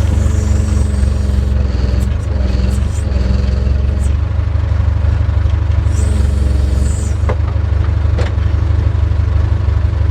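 JCB backhoe's diesel engine running steadily under load, with a higher whine that rises and falls away several times as the machine is worked. Two short sharp knocks about seven and eight seconds in.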